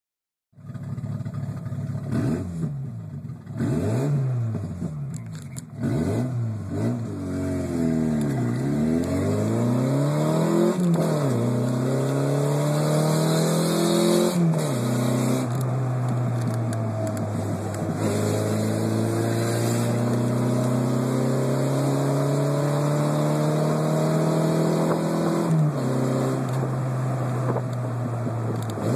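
Volkswagen Golf Mk2 engine through an exhaust with the rear muffler cut out, making it loud. It is revved in several short blips, then pulls up through the gears with two upshifts, and runs on in a steady drone that slowly rises, with another shift near the end.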